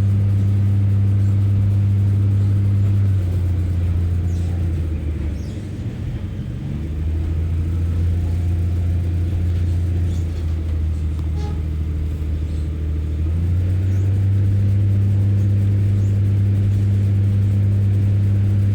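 Diesel engine of a Class 144 Pacer railbus running, a loud low drone that eases off about three seconds in, is at its quietest around six seconds, and builds back to full power around thirteen seconds.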